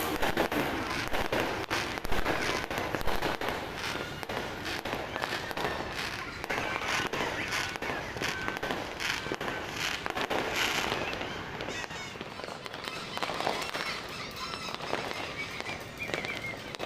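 New Year fireworks and firecrackers going off continuously, with many overlapping cracks and bangs and a few short whistles.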